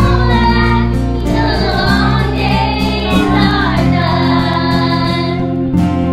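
A children's school choir sings in unison and harmony over instrumental accompaniment. The voices stop about five and a half seconds in, and the accompaniment plays on.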